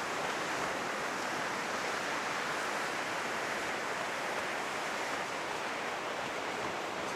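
Heavy ocean surf breaking and washing onto a sandy beach: a steady, even rushing noise. The surf is high after a passing typhoon.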